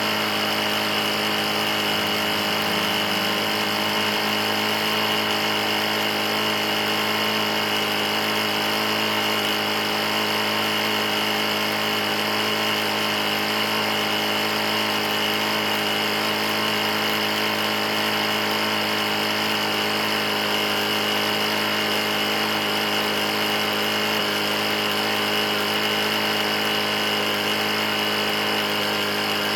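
Briggs & Stratton E450 lawn mower engine running steadily at a constant speed. The engine has a bad knock and had been run almost out of oil.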